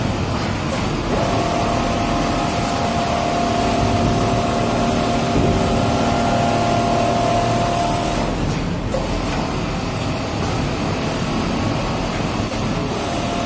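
Automatic template CNC sewing machine running with steady industrial machine noise and a constant motor whine, which drops away briefly a little past the middle before the noise carries on.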